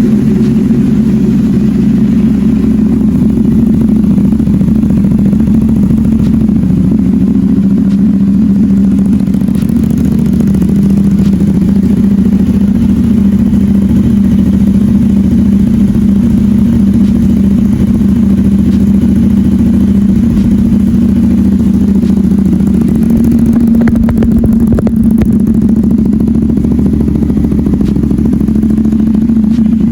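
CFMoto 450SR's parallel-twin engine idling steadily on a cold start, just after firing up, through an SC-Project aftermarket exhaust.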